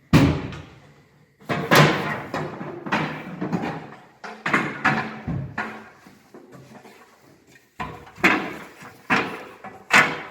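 A string of irregular hollow knocks and bangs on an aluminium boat, each ringing briefly, as gear is moved and handled on board.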